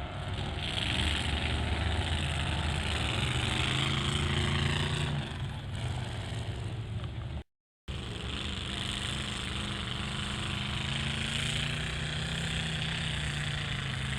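Off-road mega truck engine running under load, its pitch rising a little and then dropping about five seconds in. The sound cuts out abruptly for a moment about halfway through, then the engine carries on.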